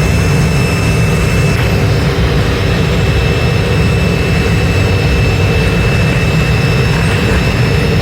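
Factory machinery running steadily, a continuous loud rumble with a constant high whine over it.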